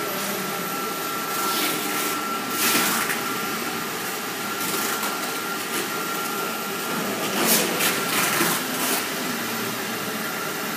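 Shrink-wrap packaging machine running: a steady mechanical whir like a blower, with short bursts of hiss several times.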